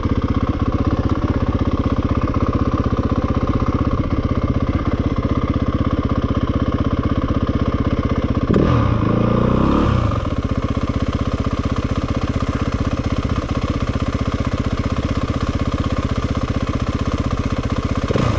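Dirt bike engine running near idle with a fast steady pulse, briefly revved with a rise and fall in pitch about halfway through.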